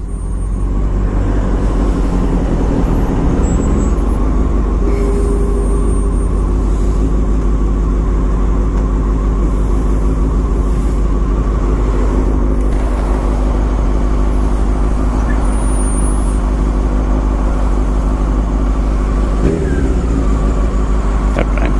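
Motorcycle engine idling steadily in neutral, an even low rumble with no revving, with road traffic around.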